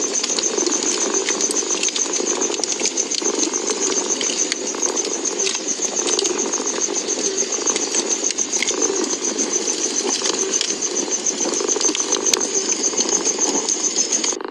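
A cat purring steadily and close up, over a wood fire crackling with scattered sharp pops. A steady high-pitched rapid pulsing runs underneath throughout.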